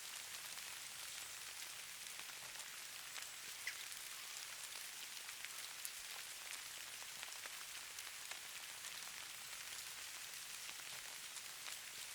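Falling snow or sleet pattering on a surface: a faint, steady hiss full of tiny scattered ticks, with one slightly sharper tick a few seconds in.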